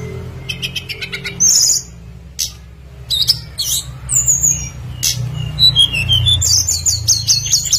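Tledekan gunung, a small flycatcher, singing: quick series of short, high chirps and sliding whistled notes, busiest in the last few seconds. A steady low hum runs underneath.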